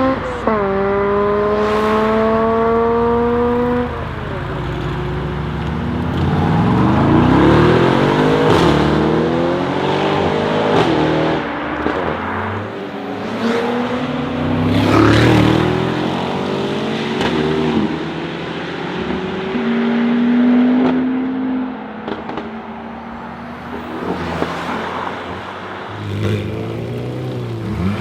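Mercedes-AMG G63's twin-turbo V8 through an Akrapovic exhaust, accelerating hard. Its pitch drops sharply at a gear change just after the start and climbs again for a few seconds, then the note rises and falls in repeated pulls and revs, with a few sharp cracks among them.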